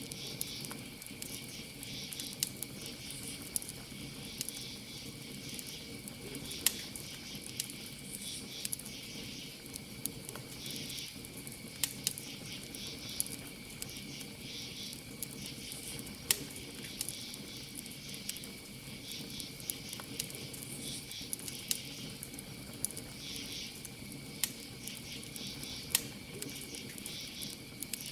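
Campfire crackling, with a dozen or so sharp pops scattered irregularly, over crickets trilling in a steady high tone and louder insect chirping that swells and fades every few seconds.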